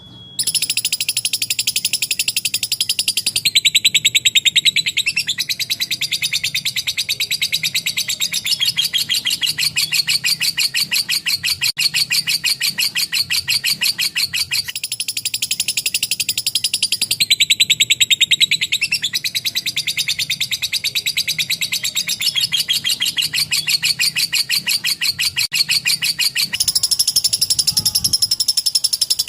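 Lovebird singing a long 'ngekek': a continuous, rapid, high-pitched chatter of fast repeated notes. The phrasing shifts every few seconds without a break.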